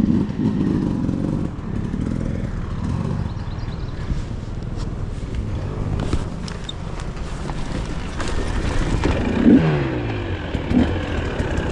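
Dirt bike engine running and revving, its pitch falling as the revs drop about nine and a half seconds in.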